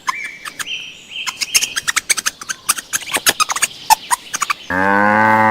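Birds chirping in many short, sharp calls. About four and a half seconds in, a cow's loud, steady moo starts suddenly.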